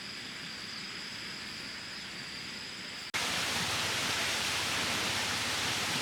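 Forest ambience with a thin, steady high insect drone over a soft hiss; about three seconds in it cuts sharply to a louder, even rushing noise like heavy rain or falling water.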